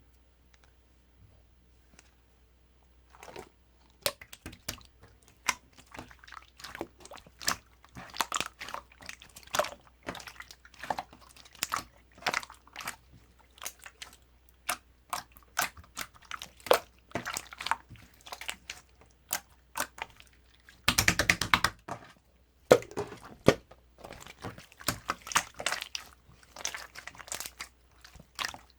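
Close, irregular crunching and crackling clicks, starting about three seconds in, with a dense run of rapid clicks about 21 seconds in.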